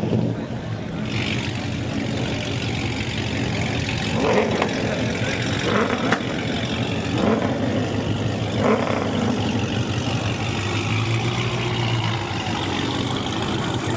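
Car engines running at idle, a steady low drone, with a few short rising sounds between about four and nine seconds in.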